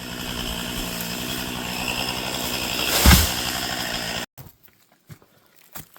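Chainsaw running steadily at high revs, with a heavy low thud about three seconds in. The saw cuts off abruptly after about four seconds, leaving a few faint steps and knocks.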